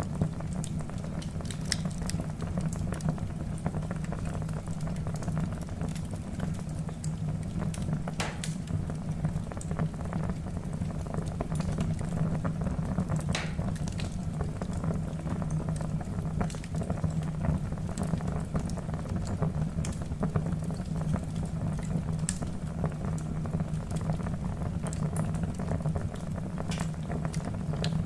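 Wood fire burning in a fireplace: a steady low rumble of flames with frequent crackles and pops from the logs, a few of them sharper and louder.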